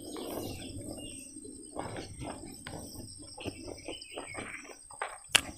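Close-up chewing and lip-smacking of a mouthful of food, a run of short wet clicks, with a couple of sharper smacks near the end. Birds chirp faintly in the background.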